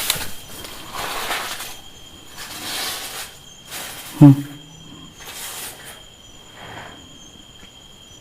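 A run of scraping, shuffling noises just outside a tent, which the camper hears as feet being dragged along beside it. About four seconds in there is one brief, loud, low-pitched grunt-like sound. Insects shrill steadily.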